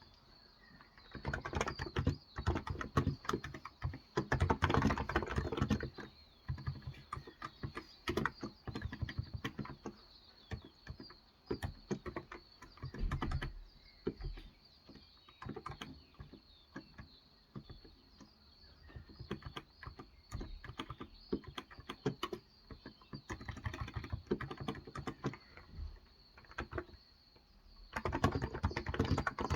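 Typing on a Cox Endeavor electro-capacitive (Topre-style) keyboard with 35 g switches: runs of soft, dense keystrokes in bursts broken by short pauses.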